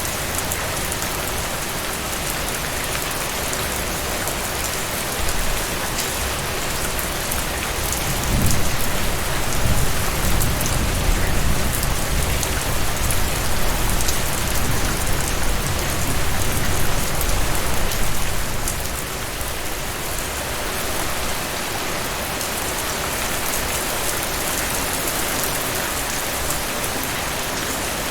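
Heavy rain falling steadily, with scattered drop ticks. A low rumble of distant thunder builds about eight seconds in and fades after about ten seconds.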